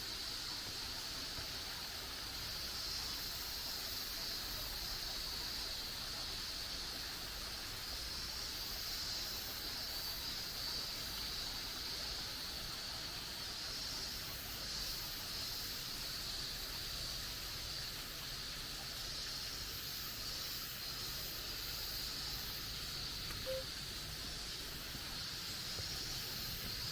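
Steady forest ambience: an even, high hiss that runs without a break and has no clear events in it.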